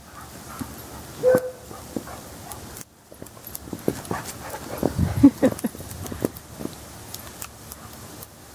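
A dog playing in snow, with scuffling and crunching noises and two brief vocal sounds: a short one about a second in and a louder one around five seconds in.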